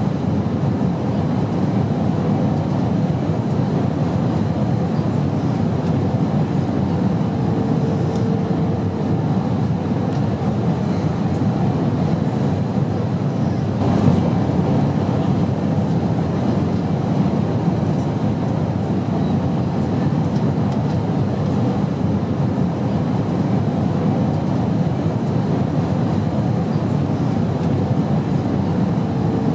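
Airplane noise: a steady low rumble that does not change, with a brief faint steady tone about eight seconds in and a small click about fourteen seconds in.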